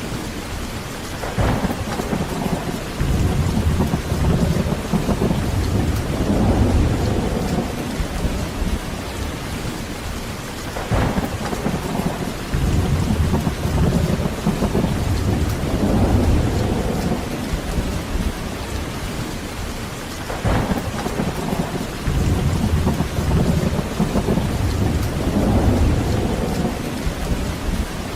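Heavy rain falling steadily, with three rolls of thunder: each opens with a sharper crack and then rumbles low for several seconds, about every nine to ten seconds.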